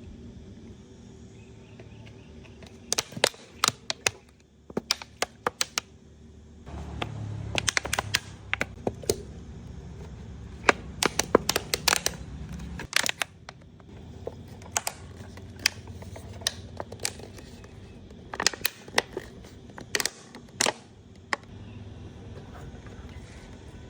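Sharp clicks and light knocks of hard objects being handled, coming in irregular clusters over a low hum.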